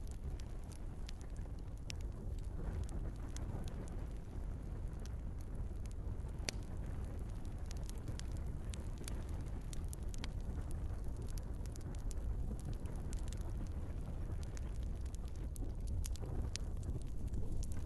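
Wood fire burning in a fireplace: a steady low rumble of flames with frequent small, sharp crackles and pops from the logs at irregular intervals.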